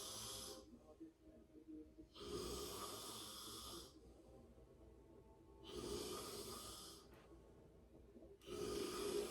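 Slow, faint breathing close to the microphone, a breath about every three seconds.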